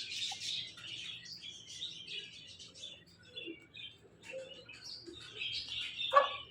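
Many birds chirping and twittering together, busy and overlapping, with one short, louder call about six seconds in.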